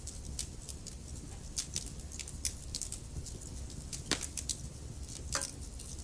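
Wood fire burning in a fireplace: logs crackling with irregular sharp pops and snaps over a low steady rumble of the flames, two louder pops about four and five and a half seconds in.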